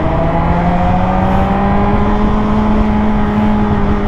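Motorcycle engine pulling under steady throttle while riding, its pitch rising gradually over the first couple of seconds and then holding steady, with low wind rush on the microphone.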